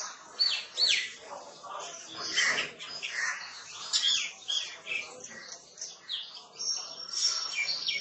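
Small birds chirping busily, many short, high, falling notes overlapping one another. A thin, steady high tone joins in near the end.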